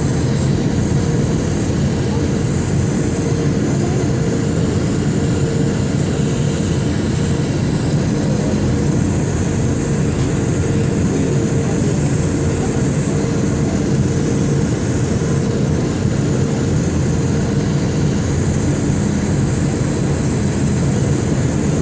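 Steady cabin noise inside an Airbus A319 airliner, a constant hum of its jet engines and rushing air with a faint high whine above it.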